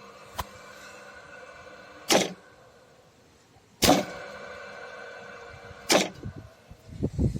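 PAE-322 electromagnetic starter (contactor with a 220 V coil) switching: three sharp clacks about two seconds apart as the contactor drops out and pulls in. Its coil hums steadily while it is held in, the hum stopping at the first clack and returning at the second; a few lighter knocks near the end.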